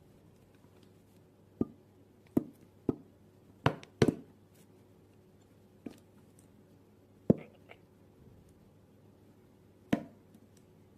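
Scattered sharp knocks of kitchen work on a hard surface, about eight at uneven intervals, two of them close together about four seconds in.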